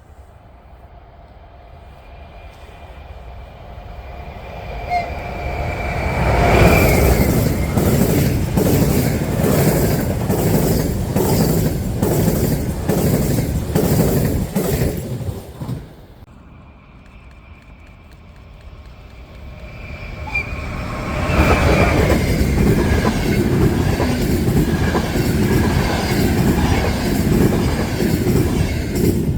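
Two trains pass close by one after the other, their wheels clattering in a steady rhythm over the rail joints. A faint steady ringing comes from the rails as each one approaches.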